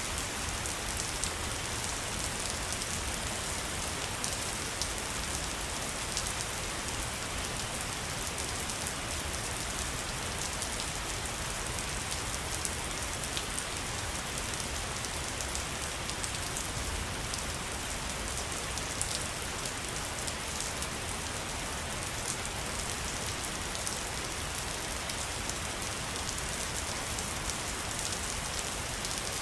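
Waterfall: a steady rush of falling water, with a fine spatter of drops on top.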